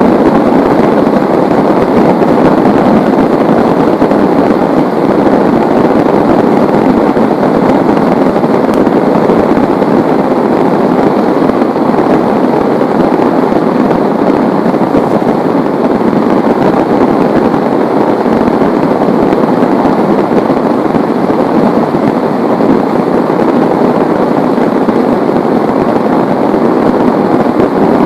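Heavy rain falling steadily: a loud, dense, even hiss with no breaks.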